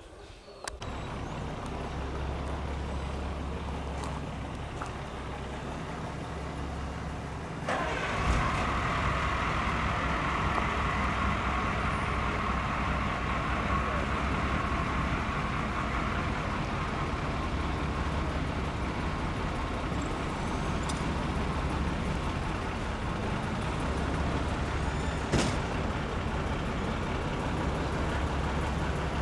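Heavy truck diesel engine running steadily. About eight seconds in, a knock is followed by a louder, steady rushing noise that continues under the engine.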